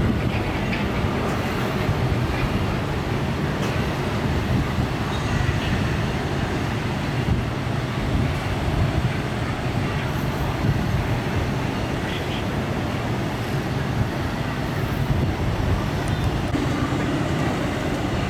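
Jet airliner engines rumbling steadily and deeply, with no clear rise or fall.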